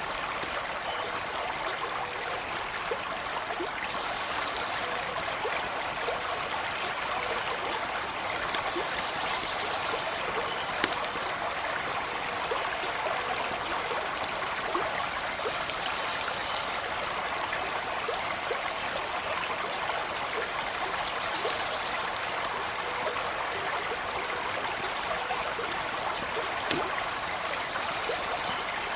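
Small creek running steadily over stones, a continuous even rush and trickle, with scattered small crackles and one sharper click near the end.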